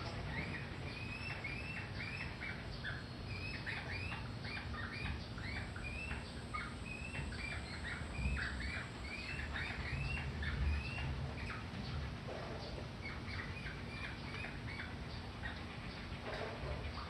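Small birds chirping in a quick series of short chirps, about two a second, pausing around eleven seconds in and then starting again more sparsely, over a steady low background rumble.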